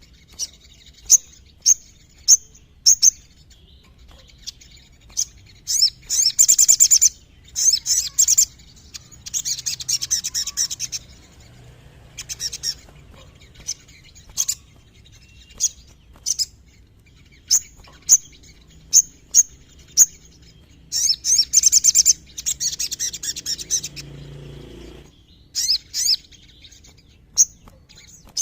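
Little spiderhunter (sogon) singing: sharp, high single chips roughly once a second, broken twice by longer runs of rapid rattling trills.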